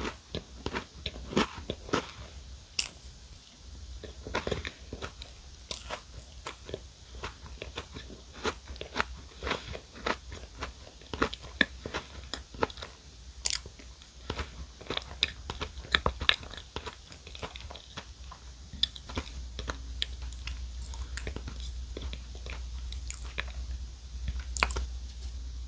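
Close-miked ASMR chewing of a chocolate cupcake with crunchy Crown Sando cracker pieces: many small crunches and wet mouth clicks in an irregular stream, with the mouth closed.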